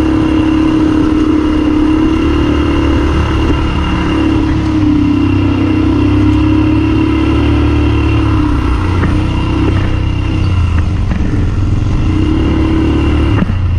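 ATV engine running steadily under way, its pitch rising and falling gently with the throttle, over a low rumble on a bumpy trail. The sound dips briefly near the end.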